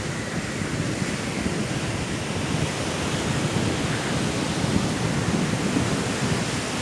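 Sea waves and strong wind making a steady, deep rushing noise, with no separate wave breaks standing out.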